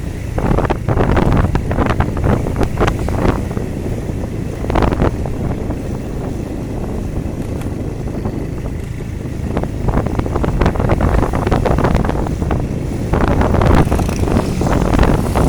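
Wind buffeting the microphone over the steady running noise of a vehicle travelling along a rain-wet road, gusting louder several times.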